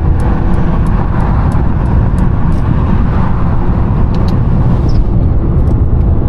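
Twin-charged Mercedes running steadily under way, a loud, dense engine and road-noise rumble heavy in the low end. A faint, regular high ticking, about three a second, fades out about five seconds in.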